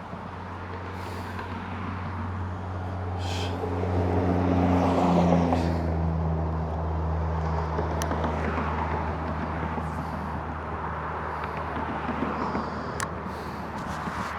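A road vehicle passing, its engine hum and tyre noise swelling to a peak about five seconds in and then slowly fading.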